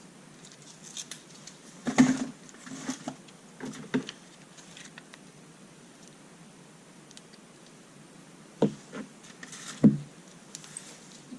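Scattered clicks, knocks and rustling of small parts and tools being handled at a workbench, with sharper knocks about two, four, nine and ten seconds in.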